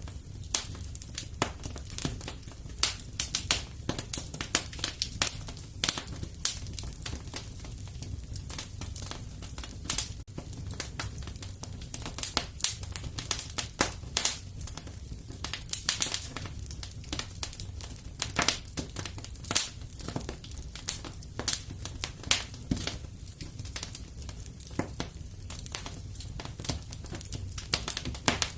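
Wood fire crackling steadily, with frequent irregular sharp pops and snaps over a low, even rumble of the flames.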